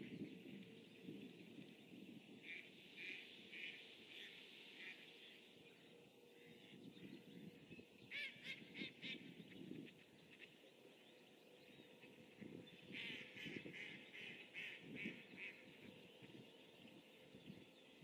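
Faint bird calls in three bursts of quick repeated notes, at about three, eight and thirteen seconds in, over a low steady background hiss.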